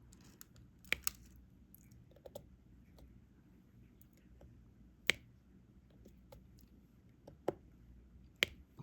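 Diamond painting drill pen picking up resin drills and pressing them onto the canvas: a few sharp, scattered little clicks and taps, several seconds apart.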